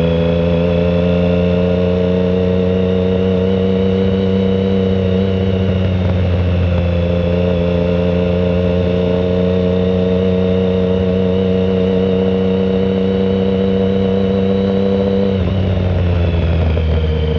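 Triumph Speed Triple 1050's inline three-cylinder engine running through a shorty Competition Werkes exhaust with no silencer, holding a steady pitch on the move. About fifteen seconds in the pitch dips briefly, then settles a little lower.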